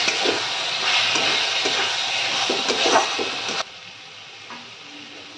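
Chicken and spice paste frying and sizzling in oil in an aluminium kadai while a metal spatula stirs and scrapes it, the bhuna stage of cooking down the masala. The sound cuts off suddenly about three and a half seconds in, leaving only a faint low background.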